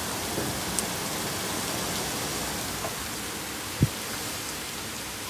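Heavy hurricane rain pouring steadily, with one short thump about four seconds in.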